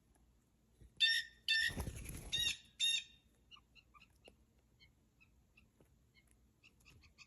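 Blue jays giving harsh, squawking calls, four in quick succession starting about a second in, with a low rushing sound under the second one. Faint, scattered high chirps follow.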